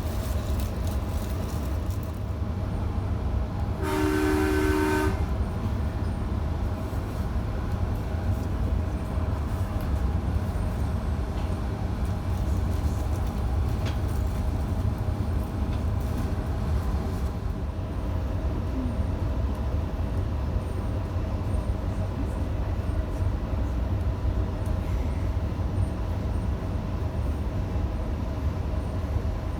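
Electric passenger train running along the line, a steady low rumble, with a two-note train horn sounding once for about a second about four seconds in.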